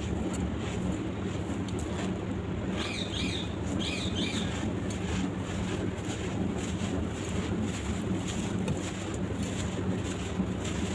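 Dry sand-cement blocks crumbling and dissolving in water, a steady low rushing noise with faint scattered crackles. A few short bird chirps come about three to four seconds in.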